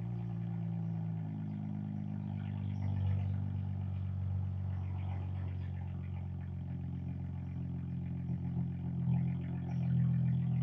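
Dodge Charger V6 idling steadily through an aftermarket Big Boz exhaust and muffler, with a low, even drone and a few slight swells near the end.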